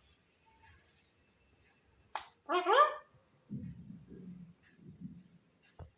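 A pet parrot gives a short call of two quick rising squawks about two and a half seconds in. A steady high insect drone runs underneath, and a low muffled murmur follows the call.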